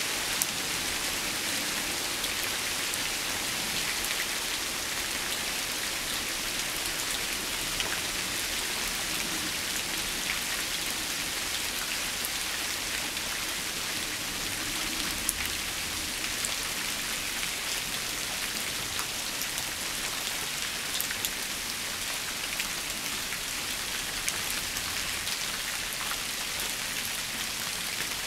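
Steady rain falling on shrubs and fallen leaves: an even hiss with scattered sharper ticks of single drops.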